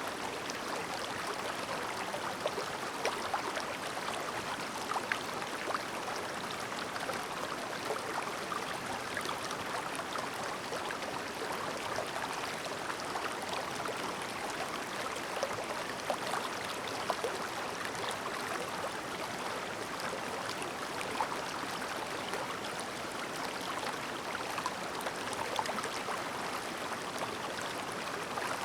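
A clear river stream babbling steadily, with many small splashes and gurgles.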